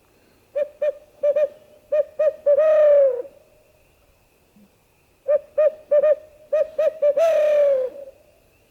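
Owl hooter locator call imitating a barred owl's hoots, blown to make roosted turkeys shock-gobble. It gives two phrases of short hoots, each ending in a longer, falling note.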